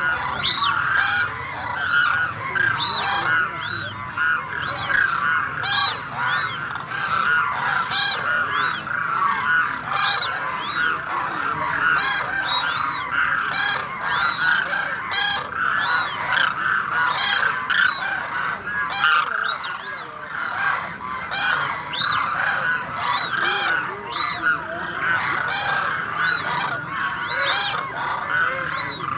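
A large flock of demoiselle cranes calling: many short, arching calls overlapping without a break.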